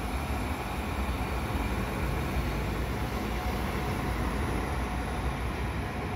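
Electric multiple-unit commuter train passing close by, a steady, even noise of wheels on rails.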